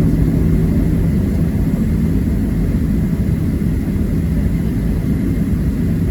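Boeing 737-700's CFM56-7 jet engines running, heard inside the cabin as a steady low rumble. A steady hum fades out about a second in.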